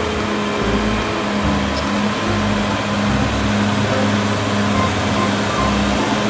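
Bulldozer engine running steadily with an uneven low rumble.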